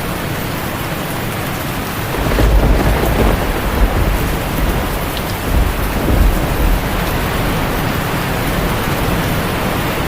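Heavy rain falling steadily on a tin roof, with a low rolling thunder rumble that swells about two seconds in, peaks a few times and fades out by about seven seconds.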